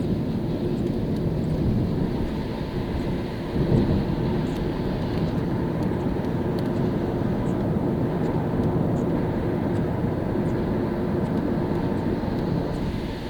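A car driving on a rain-wet road: steady engine and tyre rumble with the hiss of wet tarmac. There is a short louder bump about three and a half seconds in.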